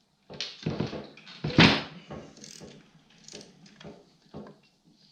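Metal hand tools knocking and scraping on a snowmobile engine as rusty bolts are worked loose by hand: a string of irregular clanks, the loudest about a second and a half in, then lighter ones.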